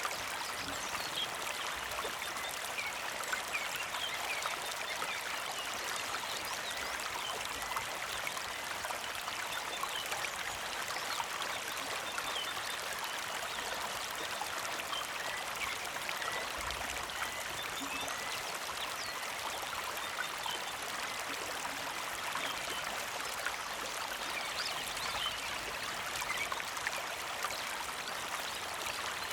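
A small creek flowing and trickling steadily, with faint, short bird chirps scattered over the water.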